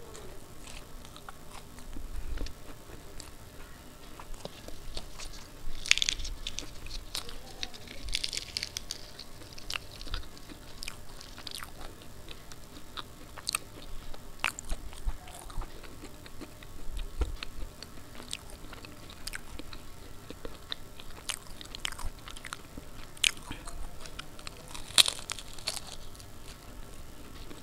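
Close-miked eating: a person bites and chews pieces of deep-fried puri dipped in potato curry, with crisp crunches and wet mouth clicks. The loudest crunches come about six seconds in and again near the end.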